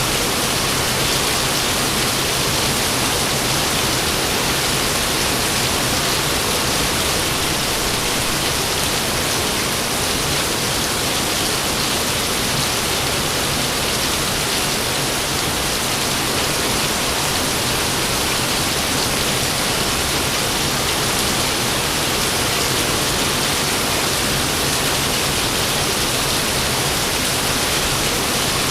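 Steady rain falling, an even hiss that holds without a break and with no thunderclap.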